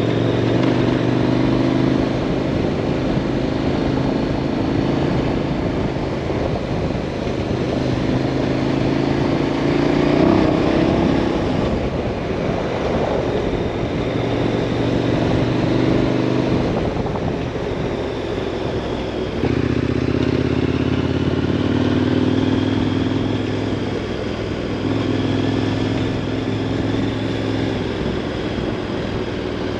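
2018 KTM 1090 Adventure R's 1,050 cc LC8 V-twin engine running steadily while riding, its note shifting several times along the way.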